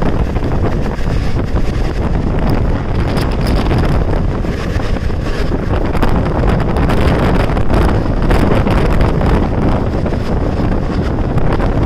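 Wind buffeting the microphone at an open train window, over the steady running rumble and clatter of a passenger train's wheels on the track at speed.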